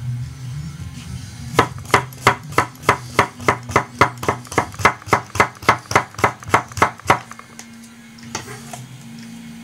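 Kitchen knife chopping on a cutting board in a quick, even rhythm of about three cuts a second for some five seconds.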